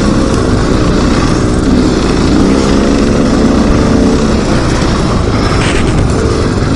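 Dirt bike engine running under load on a trail ride, its revs rising and falling as the throttle is worked, over rushing wind noise on the microphone.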